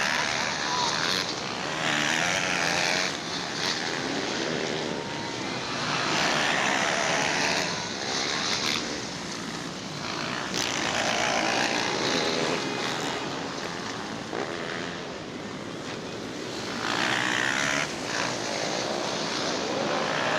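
Motocross bikes racing on the track, their engines revving hard and the sound swelling and fading every few seconds as riders pass and move away.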